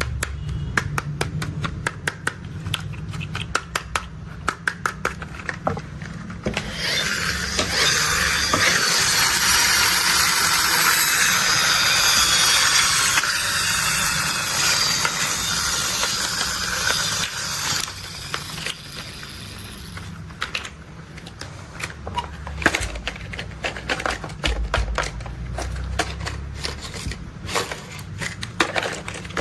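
Plastic toy construction vehicles being handled: a quick run of clicks over a low rumble, then about ten seconds of steady hiss, then scattered clicks and rumbles.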